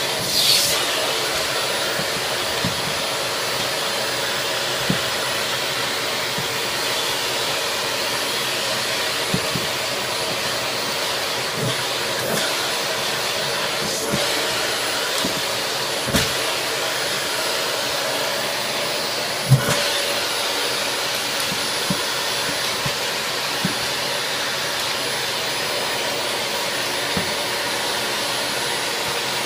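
Vacuum cleaner running steadily while it is used on a cat, with occasional short knocks; the sharpest come near the start and about two-thirds through.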